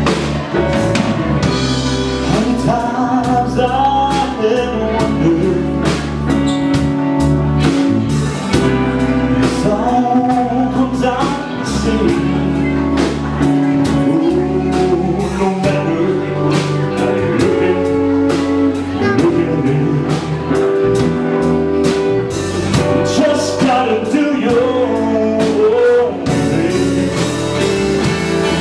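Live band playing a slow soul ballad: drum kit, bass and chords, with a melodic lead line bending in pitch over them.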